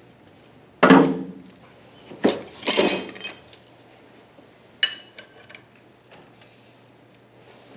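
Metal hand tools knocking and clanking against metal engine-mount parts: a loud ringing knock about a second in, a quick run of knocks around two to three seconds, and a lighter click near five seconds.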